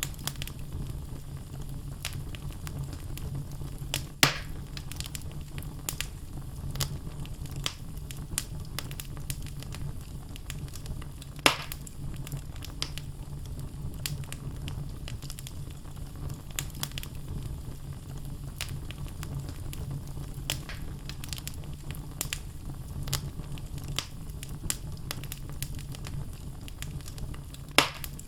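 Wood fire in a fireplace crackling: logs give many small snaps over a low steady rumble, with three louder pops about four seconds in, near the middle, and near the end.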